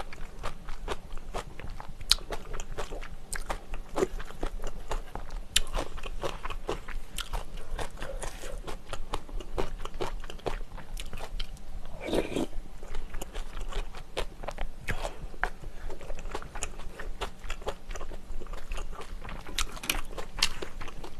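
Close-miked chewing of spicy pork-bone soup with rice, with many small wet mouth clicks and smacks at an irregular pace, and one longer, louder wet sound about twelve seconds in.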